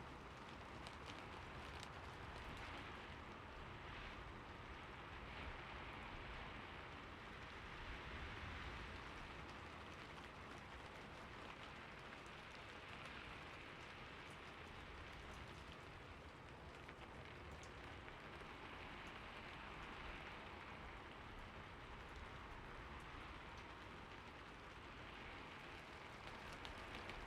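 Recorded rain falling steadily and faintly, an even hiss with scattered soft drop ticks.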